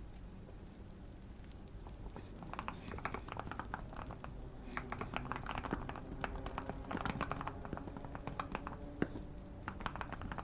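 Typing in irregular bursts on a Keychron Q1 mechanical keyboard modded for a deep, thocky keystroke sound, starting a couple of seconds in.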